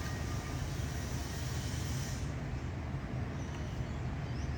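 Steady low rumbling noise with no clear calls or knocks in it.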